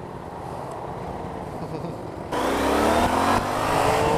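Yamaha Niken GT's three-cylinder engine accelerating: after about two seconds of low road and wind noise it gets suddenly louder and climbs in pitch, then climbs again near the end.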